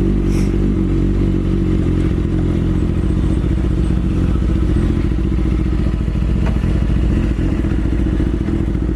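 BMW S1000RR sport bike's inline-four engine idling steadily at an even pitch.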